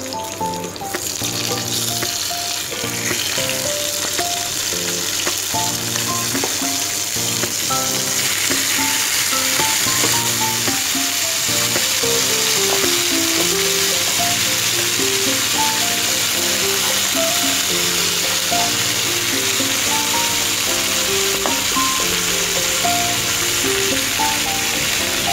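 Mutton frying in hot oil in a pan, a steady sizzle that comes up about a second in and grows louder and fuller partway through, over background music.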